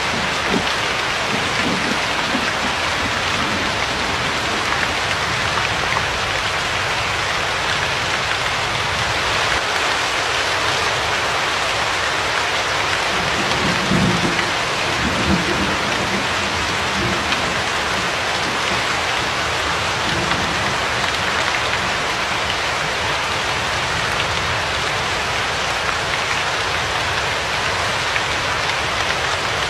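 Steady rain falling, an even hiss, with a brief low rumble about halfway through.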